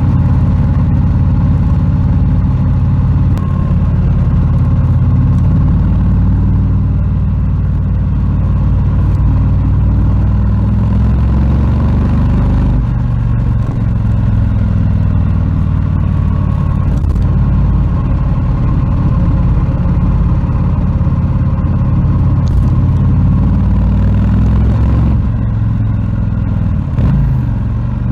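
Harley-Davidson Low Rider S's Milwaukee-Eight 117 V-twin running, its engine speed rising and falling several times, with a brief drop and pickup near the end.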